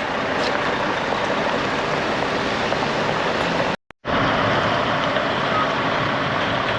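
Heavy lorry engines idling together as a steady rumble. The sound drops out to silence for a moment a little under four seconds in, then carries on as before.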